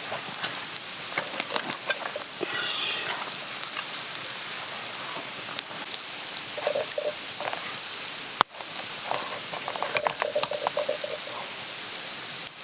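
Food sizzling and frying in a pan, with a steady hiss and scattered small crackles, plus brief clinks and scrapes of a utensil stirring.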